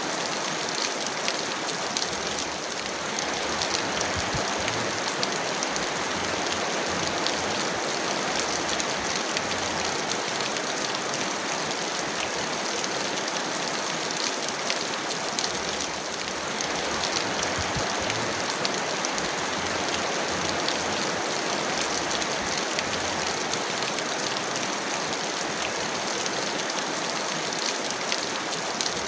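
Heavy rain falling steadily: a dense, even hiss of water with many small, crisp drop ticks throughout.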